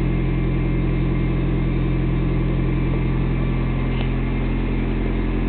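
A steady mechanical hum with an even low drone and a slight warble, like a motor or engine running.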